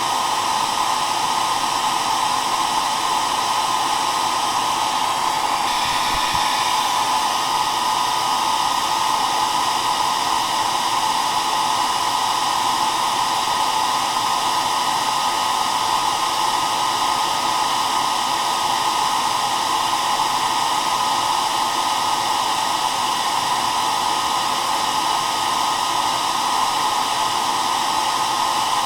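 Hair dryer running steadily: an even rush of blowing air over its motor's faint steady hum, strongest in the middle of the range.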